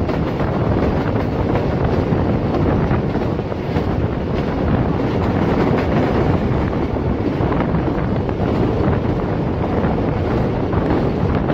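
Wind rushing over the microphone together with the steady rumble of the Awam Express passenger train running at speed.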